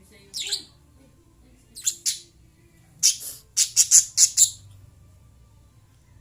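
Lovebirds chirping in short, sharp, high calls: one near the start, a pair about two seconds in, then a quick run of about six chirps around the middle.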